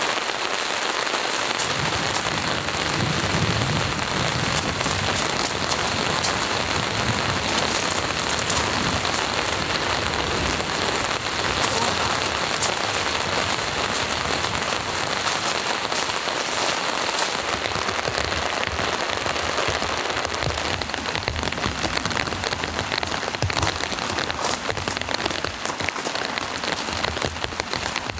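Steady heavy rain falling, a dense even hiss packed with the clicks of individual drops striking a surface.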